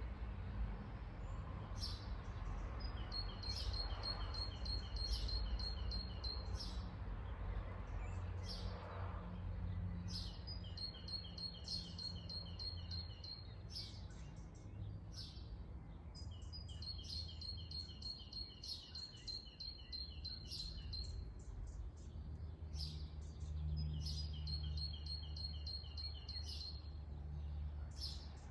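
Songbirds singing: one bird repeats a rapid, even trill of high notes in phrases of about three seconds, four times, amid scattered short chirps from other birds. A steady low rumble runs underneath.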